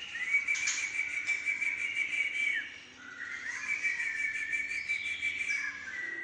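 Long, clear whistled notes of a songbird, each held for two or three seconds with a slide into and out of the note and softer overlapping notes below. The recording is played to prompt a white-rumped shama (murai batu) to start singing.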